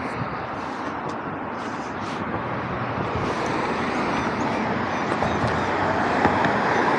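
Steady road traffic noise, growing gradually louder over the last few seconds as a vehicle draws near.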